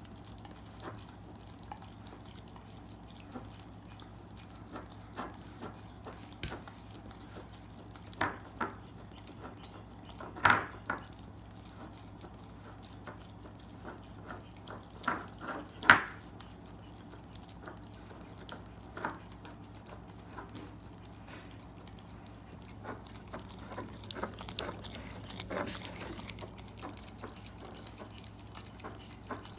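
A dog eating peanut butter: irregular wet licking and lip-smacking, with a few louder smacks about ten and sixteen seconds in.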